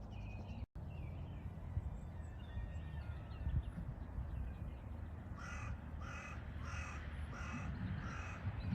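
A bird calling with five harsh, evenly spaced calls about half a second apart in the second half, over a steady low rumble; the sound cuts out for an instant near the start.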